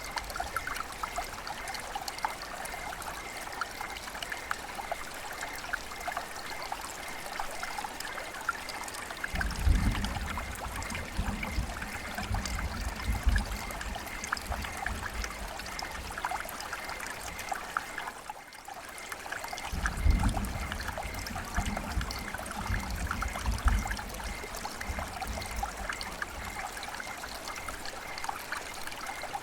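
River water flowing and babbling, a steady rush full of small splashes and trickles. Twice a deeper, lower rumble swells up for a few seconds, and the sound briefly drops away about two-thirds of the way through.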